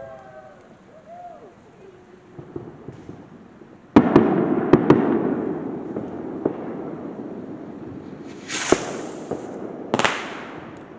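Fireworks going off: a sudden loud bang about four seconds in with a few crackles and a long fading rumble, then two sharp hissing bursts with cracks near the end.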